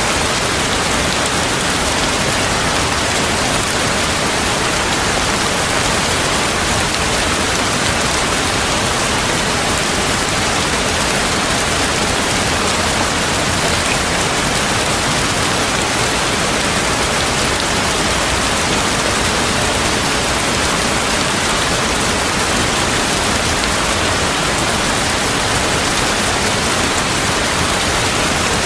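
Steady heavy rain falling, an even wash of noise with no distinct drops or thunderclaps standing out.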